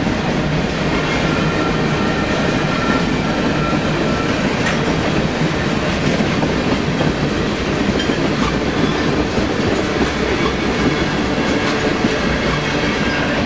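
Freight train running through at speed: a steady, loud rumble and clatter of steel wheels on the rails, with a faint thin squeal during the first few seconds.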